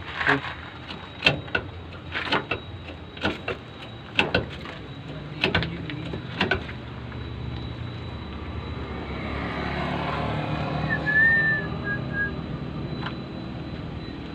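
About a dozen sharp knocks come in uneven succession over the first six seconds or so. A vehicle then passes, its engine and tyre noise swelling to a peak about ten seconds in and fading, with a brief high chirp near its loudest point.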